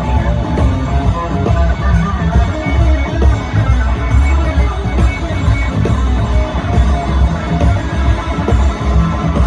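Live blues band playing an instrumental break, electric guitar leading over bass and drums.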